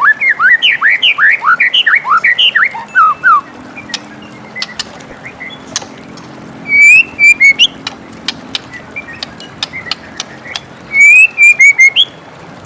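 White-rumped shama singing: a fast run of rising, slurred whistles in the first few seconds, then two loud whistled phrases topped with high sharp notes, about seven and eleven seconds in, with scattered clicks in between.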